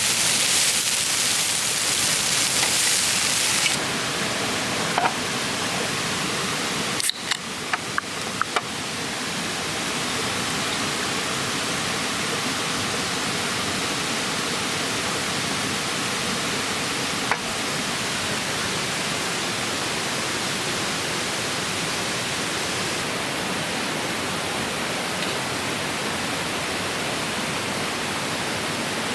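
Steady rushing of a clear mountain stream, its tone shifting abruptly a few seconds in, with a few short clicks or knocks near the start and one about midway.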